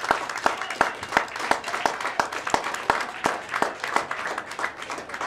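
Audience applauding at the end of a rock band performance, with one person clapping close by at about three claps a second.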